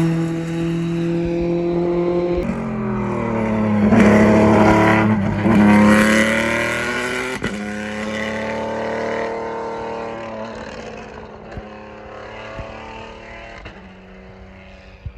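Formula One car engine at high revs with a sudden drop in pitch about two and a half seconds in. It is loudest as it passes, around four to six seconds in, then fades into the distance.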